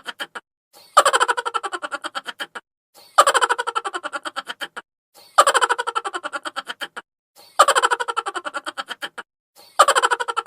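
Chipmunk laugh sound effect: a high, sped-up laugh made of quick pulses, played as a loop. The identical laugh sounds about five times, each lasting a second and a half, with short gaps between them.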